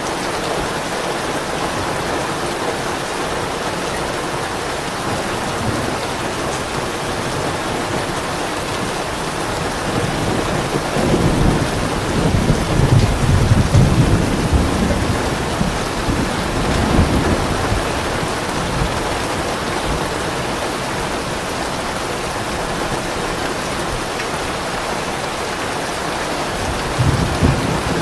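Steady heavy rain with a soft roll of thunder that rumbles up about a third of the way in, lingers for several seconds and fades, and another low rumble beginning near the end.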